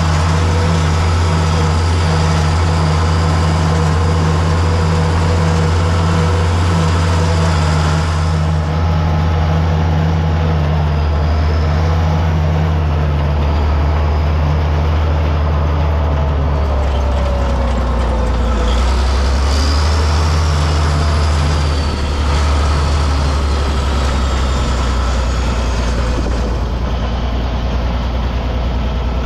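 Farm tractor engine running steadily at working speed, pulling a hay rake.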